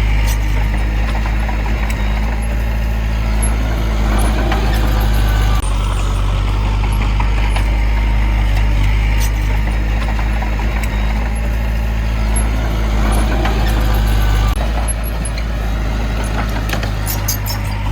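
Heavy diesel engine of earthmoving equipment running steadily, a deep even drone that drops a little in level about fifteen seconds in.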